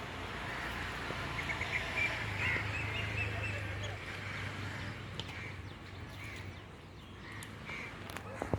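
Birds calling in short, repeated notes over a low, steady hum.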